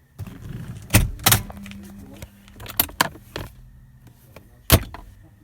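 Five or six sharp knocks and clicks, the loudest about a second in and again near the end, over a faint low steady hum.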